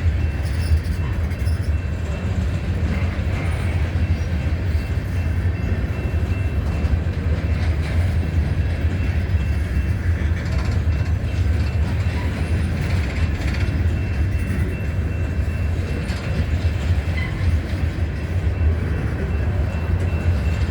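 CSX freight train rolling past with a steady low rumble and a faint, steady high ring from the wheels on the rails.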